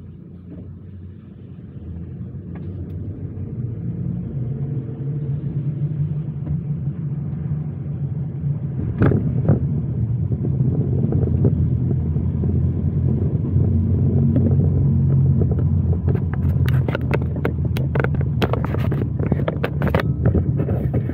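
Car driving noise heard from the vehicle: a steady low rumble of engine and tyres that grows louder over the first few seconds. Scattered short knocks and clicks come in about nine seconds in and crowd together near the end.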